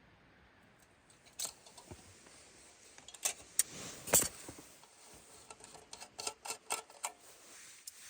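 Light clinks and knocks of camping gear being handled: a few scattered clicks, a louder group in the middle, then a quick run of clicks near the end.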